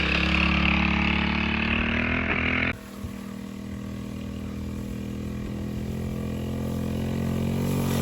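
Moped engine running steadily. The sound drops sharply about a third of the way in, then grows gradually louder.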